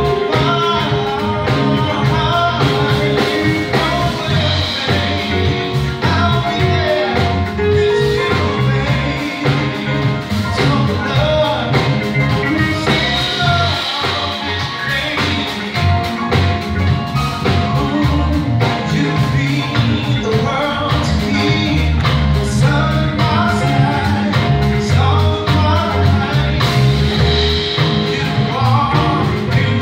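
Live band music with a steady drum beat and a strong bass line under melody lines.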